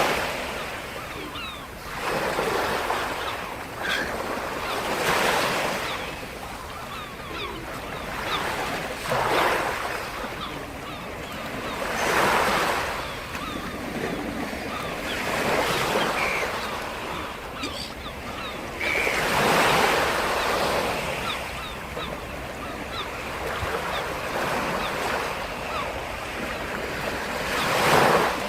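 Black Sea waves breaking and washing up the shore, each surge of surf swelling and fading every few seconds.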